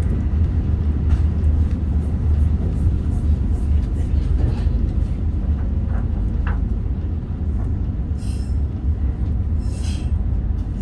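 Meitetsu Panorama Super limited express train running along the line: a steady low rumble of wheels on rail, with occasional light clicks and two short hissy bursts near the end.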